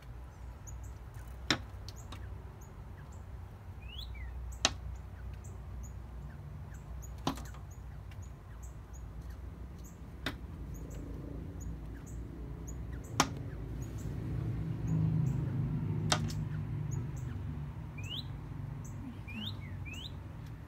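A bird striking the window glass again and again, six sharp knocks about three seconds apart, with small birds chirping and whistling outside. The behaviour is typical of a bird fighting its own reflection, which the owner suspects.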